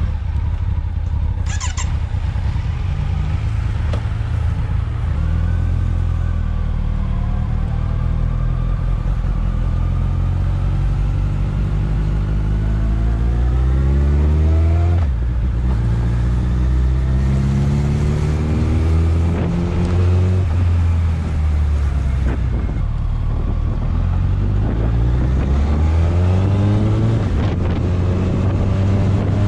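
Motorcycle engine heard close up from a camera on the bike, running and then accelerating. Its pitch climbs through each gear and drops back at each upshift.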